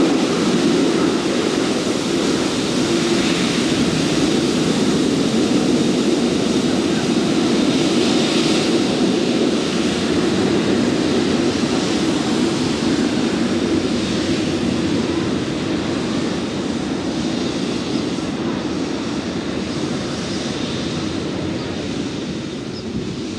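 Jet aircraft engines, a loud steady rush that slowly fades over the last several seconds as the plane moves away.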